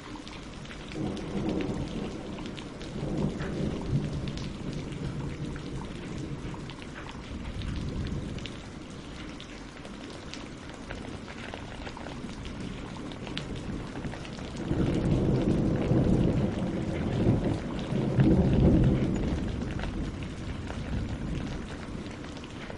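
Steady rain falling on leaves and lake water, with fine drop patter. Two low rolls of thunder rumble through it: a shorter one about a second in, and a longer, louder one starting about 15 seconds in.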